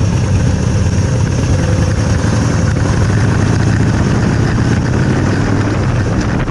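Harley-Davidson motorcycle engine running steadily, with a constant rushing hiss over a low hum.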